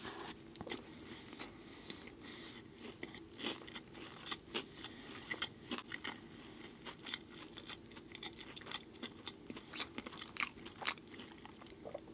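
Close-miked chewing of an Impossible Burger with salad greens: irregular soft crunches and wet mouth clicks.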